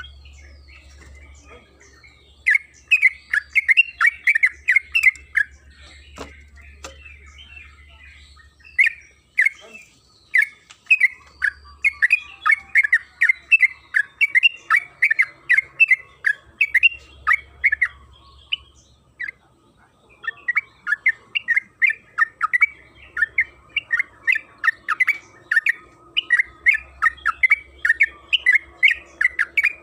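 Yellow-vented bulbul (trucukan) singing long, fast runs of short chattering notes, with brief pauses about two seconds in, around eight seconds and around nineteen seconds.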